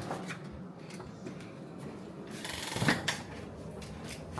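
A steady low hum in a small room, with scattered clicks, a brief rush of hiss about two and a half seconds in and a sharp knock just after it: objects being handled.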